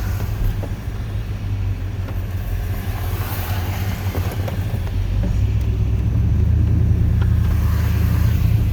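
Chevrolet plow truck's 8.1-litre Vortec big-block V8 running, a steady low drone that gets a little louder about five seconds in.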